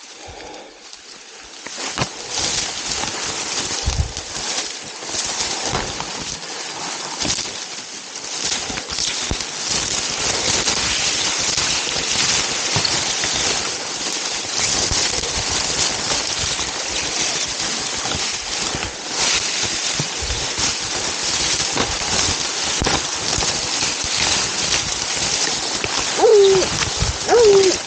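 Someone pushing on foot through a wet cattail marsh: a dense, steady rustle and crackle of stalks, with splashing and sloshing underfoot. Near the end a dog gives two short barks, the sign that it has found the deer.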